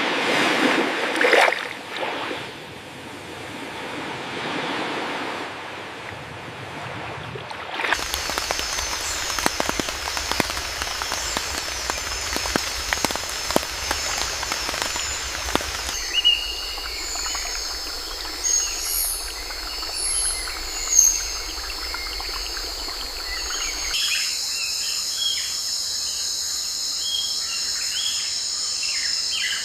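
Edited nature ambience that changes abruptly about every eight seconds: a rushing noise, then a crackling hiss, then birds chirping over a steady high insect chorus.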